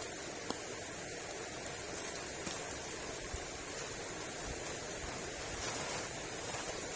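Steady rain falling, a continuous hiss with a few sharp single drop impacts.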